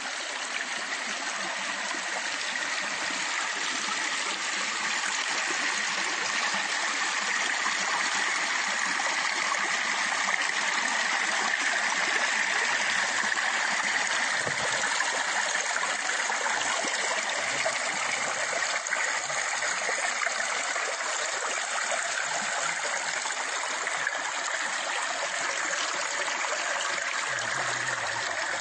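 Stream water flowing steadily, a continuous even rush with a light trickling, gurgling quality.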